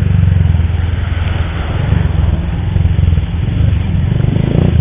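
Motorcycle engine running steadily while riding, a low drone with a noisy rush over it.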